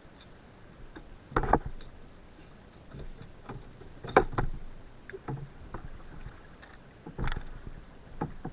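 Kayak being paddled: three loud sudden paddle strokes about three seconds apart, with softer ones in between.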